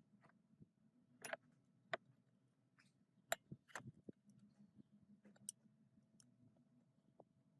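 Near silence, broken by a few faint, sharp clicks and taps scattered across several seconds, the two clearest about a second and three seconds in, over a faint steady hum.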